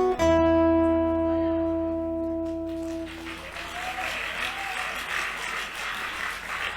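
The final chord of an acoustic guitar band, with a low bass note under it, rings out and fades over about three seconds. Then the audience breaks into applause.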